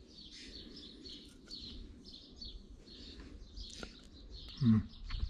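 Small birds chirping and twittering faintly in many short calls, with a brief low hum of a man's voice near the end.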